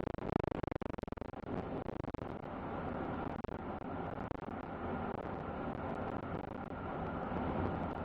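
Truck driving, a steady rumble of engine and road noise.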